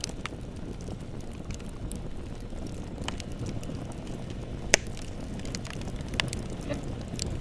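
Bonfire burning with a steady low rush and scattered crackles and pops, one sharp pop louder than the rest near the middle.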